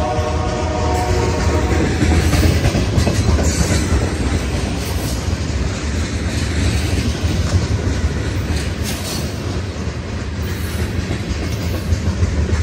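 Freight train of railroad tank cars rolling past close by: a steady, loud rumble of steel wheels on rail with clickety-clack rattling. A brief held chord of tones fades out in the first second.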